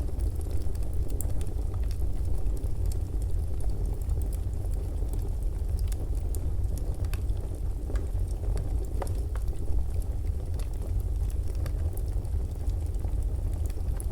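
Fireplace crackling: a steady low rumble of the burning fire with scattered small crackles and pops throughout.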